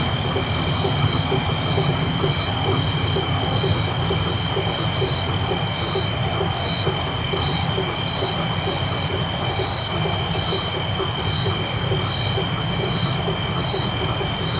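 Tropical night chorus of insects and frogs. Steady high insect trilling runs under rhythmic pulsed calls, with a fast, low, repeating frog-like pulsing.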